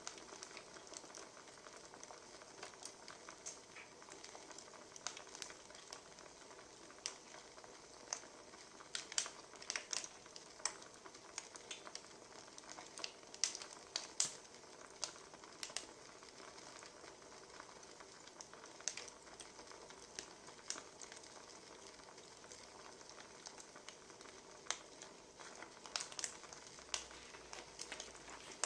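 Wood fire crackling: a steady soft hiss with irregular sharp pops and snaps, busiest around ten and fourteen seconds in and again near the end.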